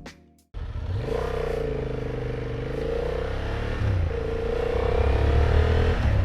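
Motorcycle engine running under way with wind rush over the helmet microphone; the engine note rises and falls gently and breaks briefly about four seconds in before steadying again.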